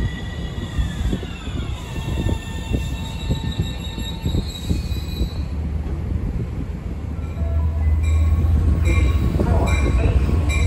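Train sounds: a several-toned whine falls in pitch over the first two seconds. From about eight seconds in, a Long Island Rail Road diesel locomotive's engine drone grows louder as the train pulls into the station, with high wheel and brake squeal.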